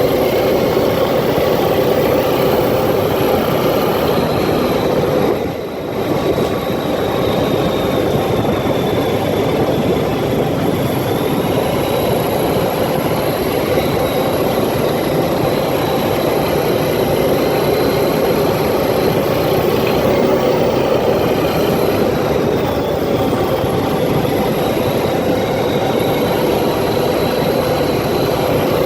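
ATV engine running steadily while riding, with a brief dip in level about five and a half seconds in.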